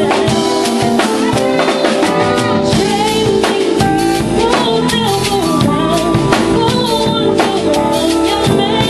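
A band playing a soul groove: a drum kit keeping a steady beat under bass and keyboards, with melodic lines over the top.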